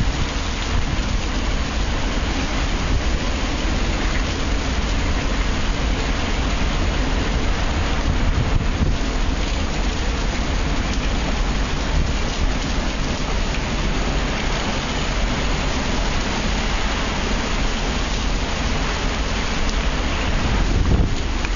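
Heavy hurricane rain and wind: a loud, steady rush of rain with a deep wind rumble on the microphone.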